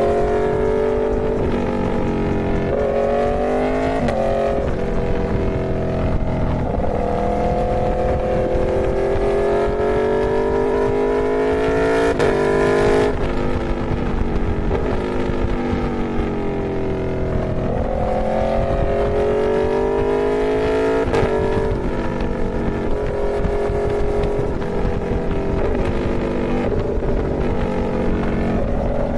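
Aprilia Tuono V4 motorcycle's V4 engine pulling under way. Its pitch climbs steadily and then drops sharply several times as the throttle and gears change, over a steady rush of wind noise.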